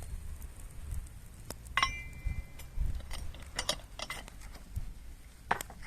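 Metal cookware and utensils clinking and knocking during campfire cooking, with one ringing clink about two seconds in and a sharp knock near the end.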